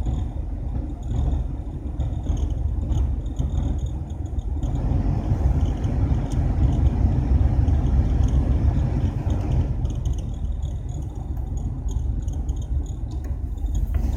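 Nissan Skyline GT-R R32's blower fan making faint, high, repeated cricket-like chirps: a fault noise in the fan. A steady low car rumble runs beneath, and a louder rushing haze comes in for a few seconds in the middle.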